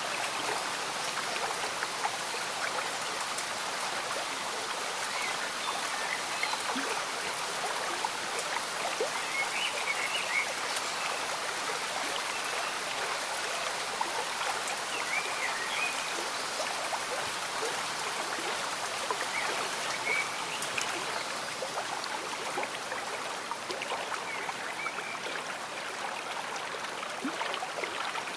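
Slow-moving stream bubbling and gurgling steadily, with gentle rain falling. Small bubbling notes come and go above the even rush of the water.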